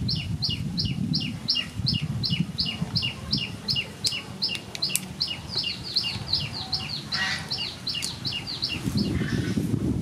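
A bird calling in a rapid, steady series of short, high, downward-sliding chirps, about four a second, that stops shortly before the end.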